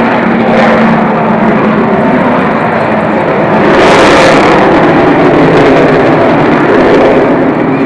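Avro Vulcan XH558's four Rolls-Royce Olympus turbojets, loud as the bomber passes in a display. The jet noise swells to its loudest about four seconds in, then eases away.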